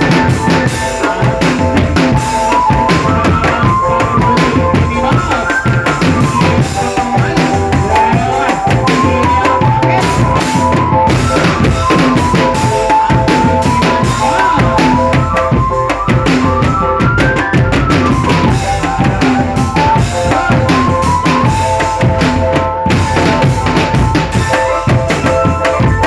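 Indonesian marching drumband playing a tune: bass and snare drums keep a steady beat under a melody line.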